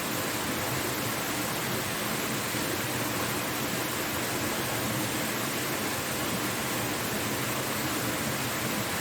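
Steady rushing of a waterfall, an even wash of falling water that holds level throughout.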